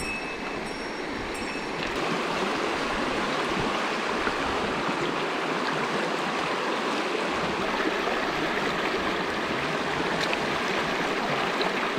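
Mountain stream flowing: a steady rushing of water, a little louder from about two seconds in.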